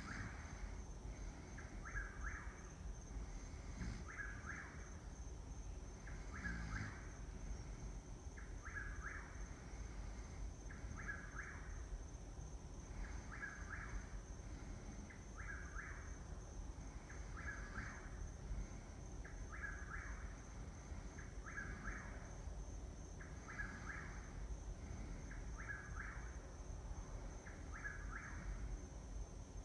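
A bird calling at night: the same short call repeated steadily about every two seconds, with a faint steady high whine running underneath.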